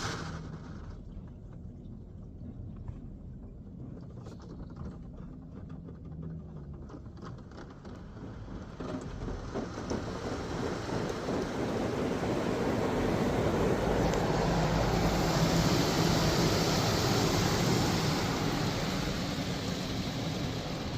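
Istobal M'Wash 3 touchless car wash spraying water jets over the car. A hiss of spray, fainter at first, builds from about nine seconds in and is loudest a few seconds before the end.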